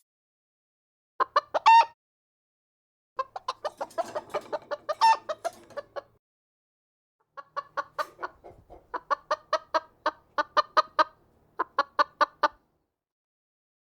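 Chicken clucking in quick runs of short notes, in three separate takes with dead silence between them.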